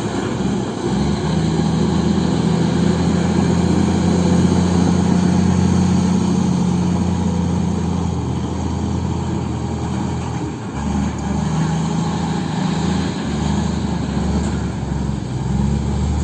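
Heavy diesel engine running hard under load, a steady low drone that peaks about four seconds in, then eases and rises and falls through the second half.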